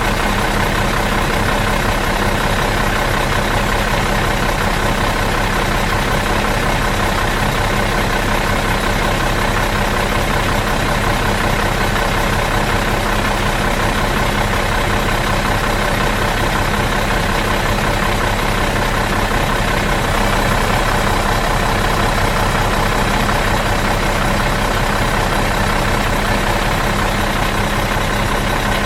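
Bus diesel engine idling out of gear, a steady, even hum that does not change.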